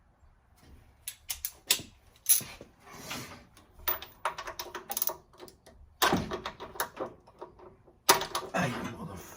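Metal hand tools and parts clicking, knocking and clattering in quick irregular strikes, with a few longer scraping rattles, the loudest about 8 seconds in.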